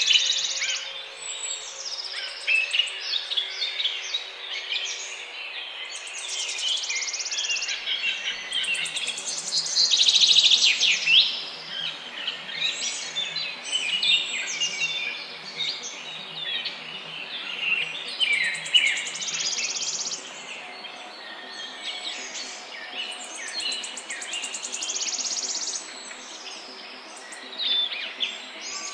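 A morning chorus of many birds chirping and trilling over one another, loudest about ten seconds in, over a faint low steady hum.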